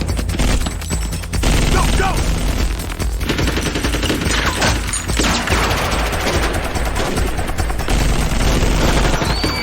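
Rapid automatic gunfire in a film action soundtrack: long runs of shots in quick succession, with short breaks.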